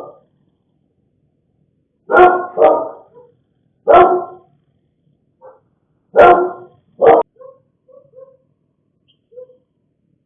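Dog barking: five loud barks, in a pair, a single and another pair, then a few short, faint yips near the end.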